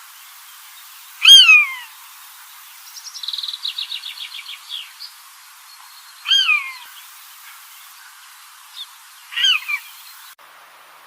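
Birds calling: three loud calls that slur down in pitch, spaced a few seconds apart, with a rapid trill of about ten notes a second between the first two, over a steady hiss. The background changes abruptly near the end.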